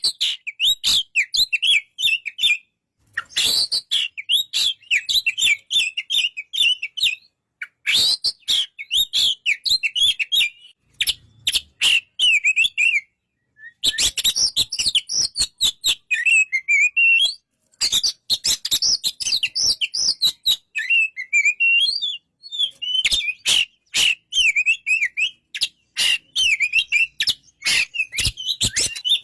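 Oriental magpie-robin (kacer) singing in bursts of rapid, varied chirping and warbling phrases, a few seconds each, with short pauses between them and sharp clicks among the notes.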